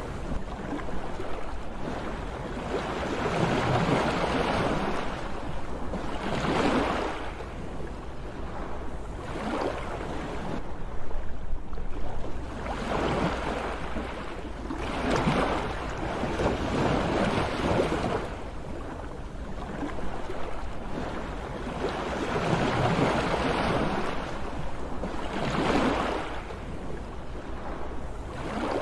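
Sea waves breaking in repeated swells of surf noise, one every few seconds, over a steady low rumble.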